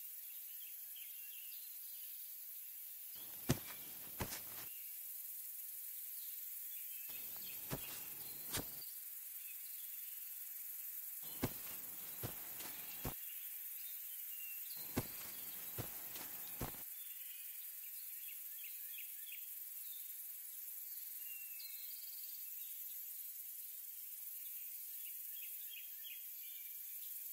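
Outdoor nature ambience: a steady high-pitched insect hum with faint scattered chirps. Four short groups of sharp clicks or taps come about four seconds apart, each lasting a second or so.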